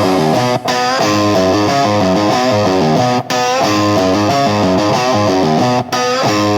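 Distorted electric guitar playing a fast run of notes in an instrumental break of a hard rock song, with the music cutting out briefly three times.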